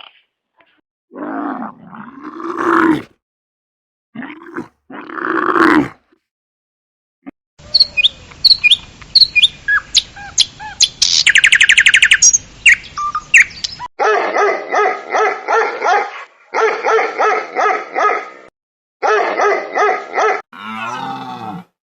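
A run of animal calls from separate clips. First come two drawn-out bending calls, then bird chirps with a fast buzzy trill. After that come bouts of rapid repeated barks or yaps, about four or five a second, and a low falling call near the end.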